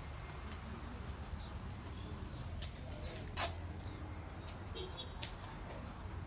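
Small birds chirping: short, high, falling chirps every second or so, over a steady low rumble. A single sharp click about halfway through is the loudest sound.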